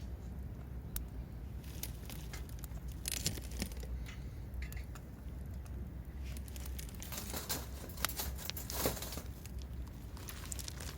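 Irregular rustling, crinkling and clicking of things being handled close by, over a steady low rumble.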